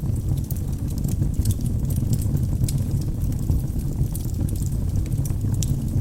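Wood logs burning in a fireplace: a steady low sound from the flames, broken by frequent small, sharp crackles and pops.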